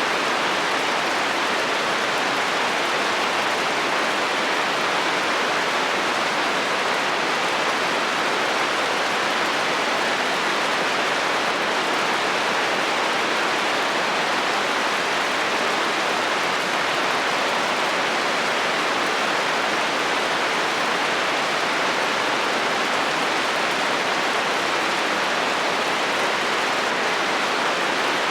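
Heavy rain falling on a metal roof, a steady, even patter with no thunder.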